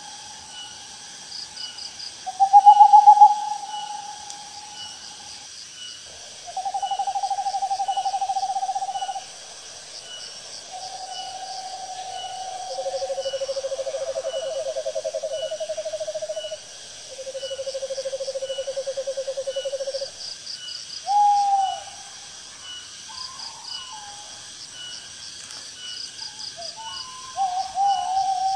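Owls giving long, tremulous hoots held at a steady pitch, two of them overlapping at different pitches in the middle, followed by shorter falling calls near the end. Faint rhythmic insect chirping runs underneath.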